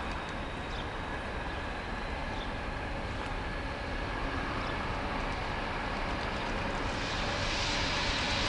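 Qube 1100 class diesel locomotives hauling an empty freight train, approaching with a steady rumble that grows gradually louder; a hiss builds near the end.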